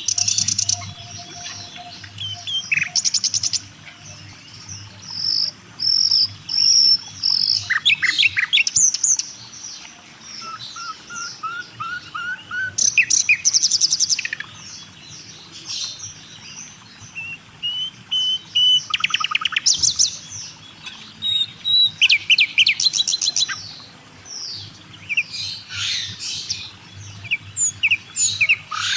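Several songbirds singing and calling together, a mix of short chirps, rapid trills and whistled notes that come and go.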